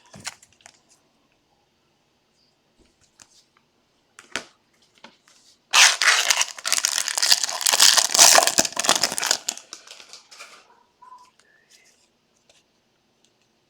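Wrapper on a pack of trading cards crinkling and tearing as it is opened by hand, a dense stretch of about four seconds in the middle, with a few light clicks and taps of card handling around it.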